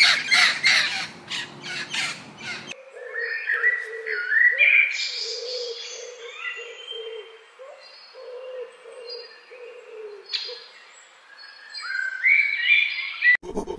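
A cockatoo squawking in a fast run of harsh calls that stops abruptly about three seconds in. Then chirping bird calls follow: short rising whistles over a lower repeated note, broken off just before the end.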